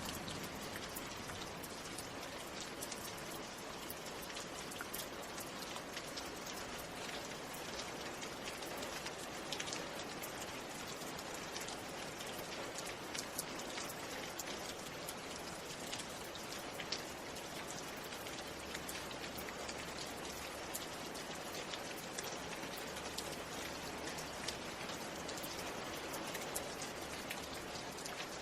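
Steady rain: an even hiss with many individual drops ticking sharply on a surface throughout.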